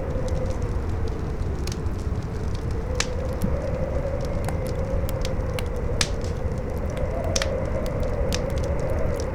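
Campfire crackling with frequent sharp pops and snaps, over a howling wind whose pitch slowly rises and falls, with a low steady wind rumble beneath.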